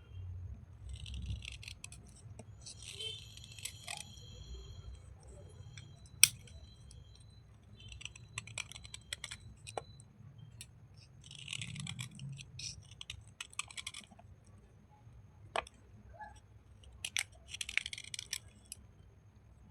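Brittle slate pencil bars and chips being rubbed and crumbled by hand, wet: bursts of scratchy crackling and crunching with a few sharp single clicks.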